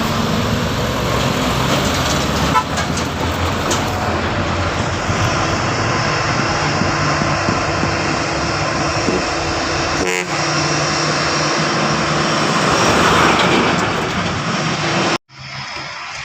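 Heavy truck's diesel engine running steadily, loud and close, with a short sharp clack about ten seconds in. The sound cuts off abruptly near the end.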